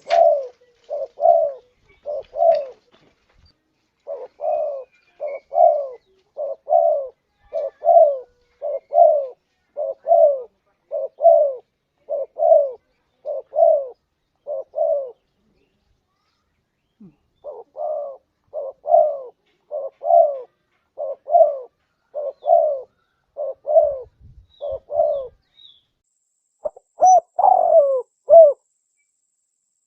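Spotted dove (tekukur) cooing: a long series of low coos, about two a second, broken by a pause of about two seconds near the middle.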